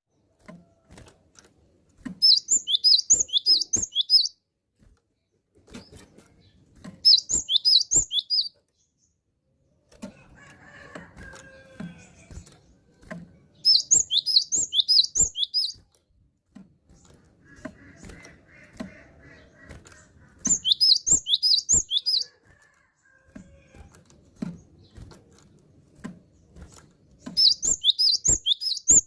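Cinereous tit singing: five short bursts of rapid, high, repeated notes, each about two seconds long, several seconds apart, with faint clicks and rustling between them.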